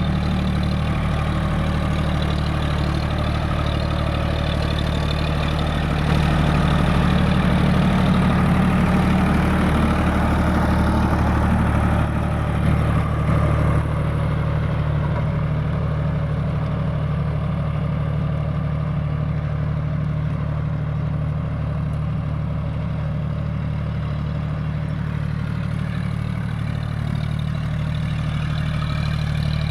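John Deere 5050D tractor's diesel engine running steadily, louder for several seconds about a fifth of the way in, then easing back a little.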